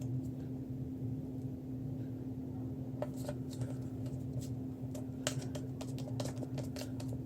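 Small sharp clicks and taps from handling paper craft materials, coming in a quick irregular run over the second half, over a steady low hum.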